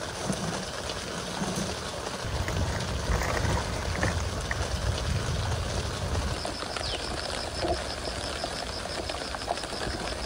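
Steady hiss of light rain falling on a tent. About six seconds in, a rapid series of high chirps starts up outside and keeps going.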